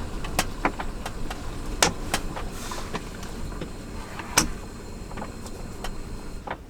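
Irregular light clicks and knocks, as of small objects being handled, over a steady low rumble; the sharpest knocks come about two seconds and about four and a half seconds in.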